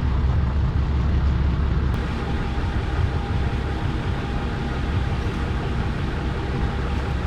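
Boat engine idling, a steady low rumble that eases slightly about two seconds in.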